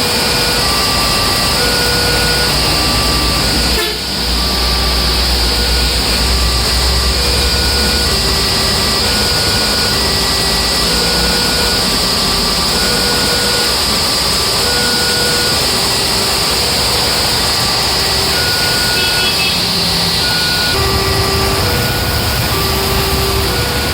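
Heavy rain falling steadily while a train passes with a low rumble. A level-crossing alarm rings in short electronic tones that repeat evenly and alternate in pitch.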